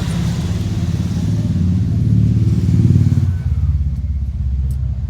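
A motor vehicle engine, most likely a motorcycle's, running close by. It revs up to a peak about three seconds in, then eases off abruptly and keeps running lower.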